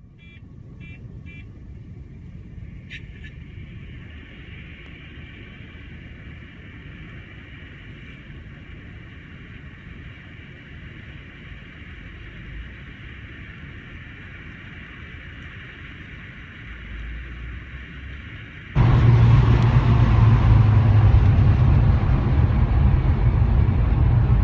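Three short beeps, then faint, steady road and engine noise from a dashcam recording of a car driving on a highway, played through the dashcam's small speaker. About 19 s in, it gives way suddenly to loud car engine and road noise heard inside the cabin, a steady low drone.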